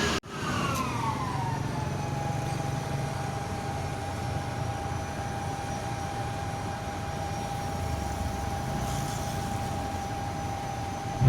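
A heavy truck running: a whine falls in pitch over the first couple of seconds and then holds at one steady pitch over a low engine hum.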